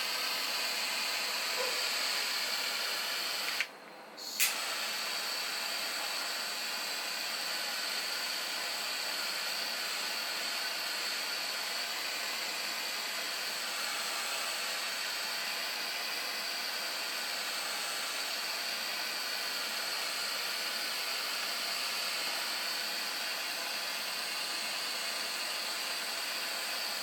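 Steady hiss from a 4-inch gas-fired model steam boiler running, with a constant high edge to the hiss. It cuts out for about half a second around four seconds in and comes back with a sharp click.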